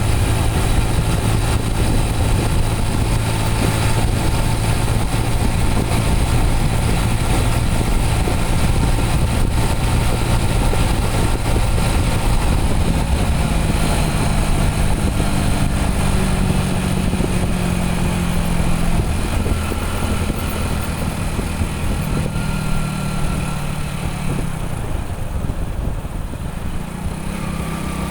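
Motorcycle engine running steadily under way, over a constant rush of wind and road noise; the engine note rises about halfway through and drops off briefly near the end.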